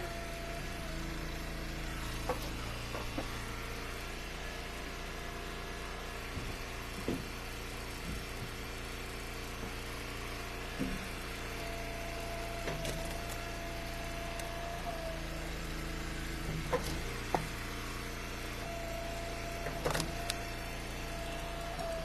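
Engine-driven Eastonmade Ultra wood splitter running steadily, with a higher tone that comes and goes a few times and scattered knocks of firewood being handled and split.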